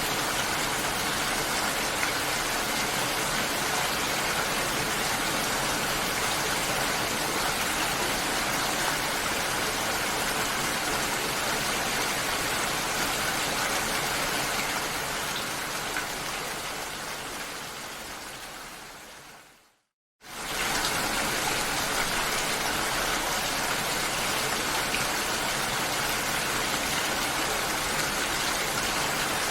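Steady rain falling, a dense even hiss of drops. It fades out over several seconds to a moment of dead silence about twenty seconds in, then cuts straight back in at full level.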